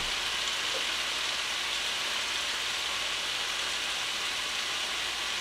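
Chicken and vegetables sizzling steadily in two frying pans on an electric hot plate, an even frying hiss with no stirring.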